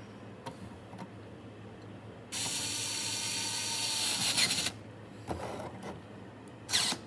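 Electric screwdriver driving a screw, its motor whining steadily for about two and a half seconds and getting louder just before it stops, then a few short clicks and a brief rattle near the end.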